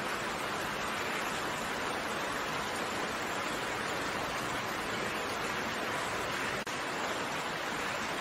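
Steady, dense rain: an even hiss of countless raindrops with no single drops standing out, broken by a brief dropout about six and a half seconds in.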